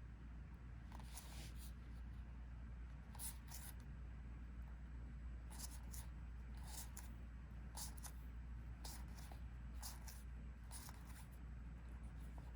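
Collectible trading cards sliding against one another as they are flipped through one by one: about a dozen soft, irregular swishes over a low steady hum.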